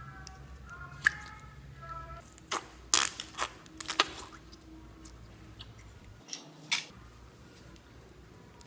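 Slime being squished and handled, with a scatter of sharp sticky pops and clicks, most of them bunched together around three to four seconds in.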